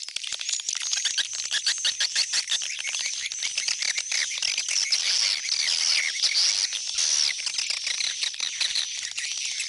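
Dense chorus of swiftlets twittering, rapid clicks mixed with short high chirps, without a break: the swiftlet-house call sound used to draw swiftlets home to roost.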